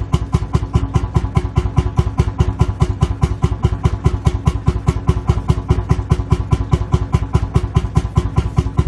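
Lanz Bulldog's single-cylinder two-stroke hot-bulb engine idling, a steady, even chug of about five beats a second.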